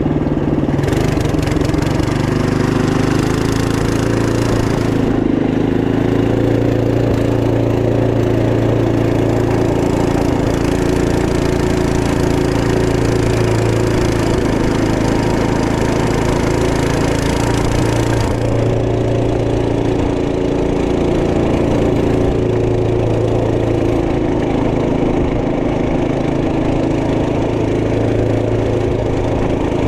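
Trail Master MB200 minibike's 212cc single-cylinder four-stroke engine running under way, its pitch rising and falling a little with the throttle. A hiss rides over it and drops away about 18 seconds in.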